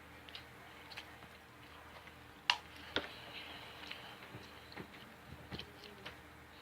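Quiet eating sounds: soft chewing with scattered small clicks, the two sharpest about two and a half and three seconds in.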